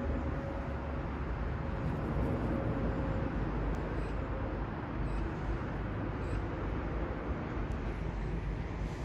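Airbus A380 jet engines passing overhead, a steady low rumble with a faint hum that fades out about four seconds in.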